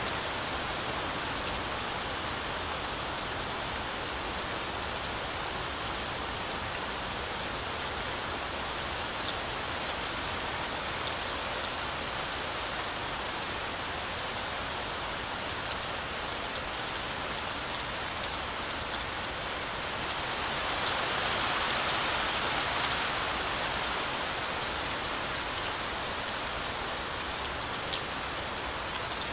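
Heavy rain falling steadily through a forest canopy, a constant hiss with scattered drop ticks, swelling louder for a few seconds about two-thirds of the way through.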